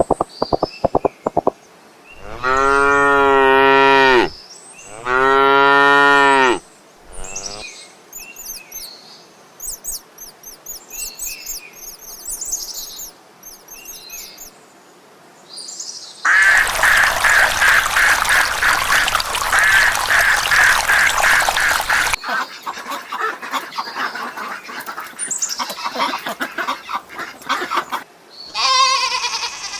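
A cow mooing twice, two long low calls of about two seconds each, then high chirping and a loud stretch of rapid, dense bird calling lasting several seconds.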